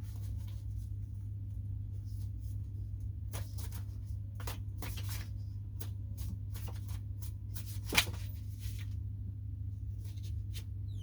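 Tarot cards being handled: scattered short rustles and slides of cards, with one sharper tap about eight seconds in, over a steady low hum.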